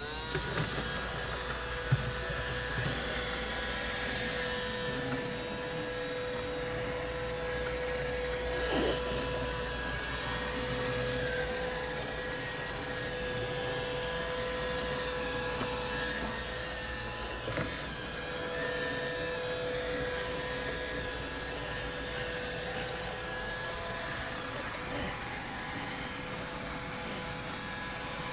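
Roomba robot vacuums running: a steady motor whine over brush and suction noise, with a few light knocks.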